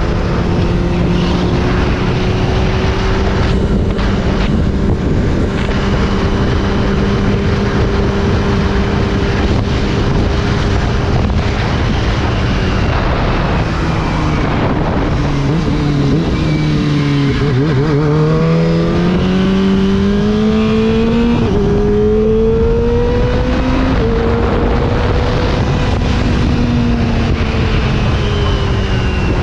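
Kawasaki Ninja ZX-25R's inline-four engine through an Akrapovič exhaust, under way on a mountain descent: a steady engine note that drops about two-thirds of the way through, then climbs again with a gear change, under heavy wind rush on the microphone.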